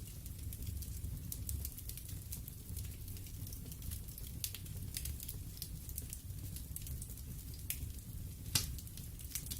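Wood fire in a fireplace crackling: frequent sharp pops and snaps from the burning logs over a steady low rumble of the flames. One louder pop comes near the end.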